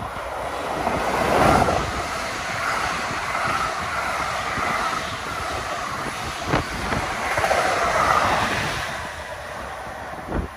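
NJ Transit multilevel commuter train passing at speed: a steady rush of wheels on rail that swells as it nears, with one sharp knock about six and a half seconds in, easing off near the end as the train draws away.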